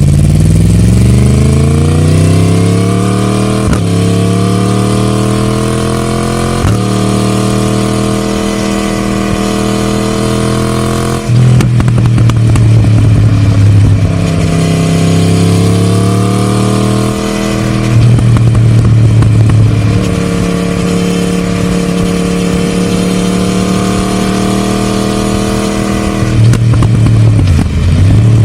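Yamaha MT-10 crossplane inline-four, with the catalytic converter removed by a Scorpion decat pipe and the stock silencer kept, pulling hard with rising revs and quick upshifts in the first several seconds. The revs then hold and swing down and back up several times as the throttle is rolled off and on.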